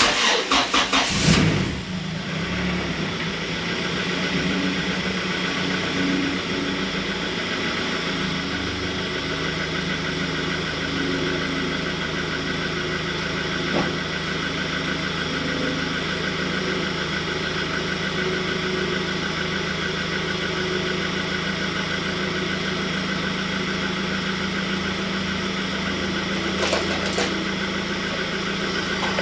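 Honda G23 VTEC four-cylinder engine being started: it cranks briefly, catches and settles into a steady idle, with the idle dropping slightly lower after about nine seconds. This is the first run after fitting an oil temperature sensor, a check for oil leaks.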